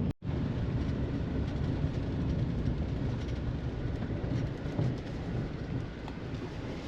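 Steady rushing noise of water spraying from center-pivot irrigation sprinklers, with wind buffeting the microphone.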